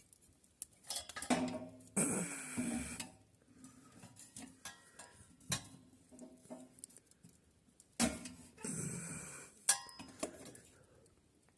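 Scattered clicks and clinks of small sticks and metal being handled at a small wood-burning rocket-stove heater. Two louder, noisier stretches with a pitched sound in them come about two seconds in and again about eight seconds in.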